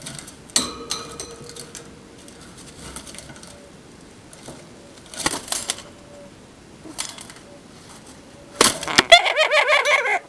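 Pet lovebird chirping and chattering: a few short, clicky chirps, then a loud, rapidly warbling call lasting about a second and a half near the end.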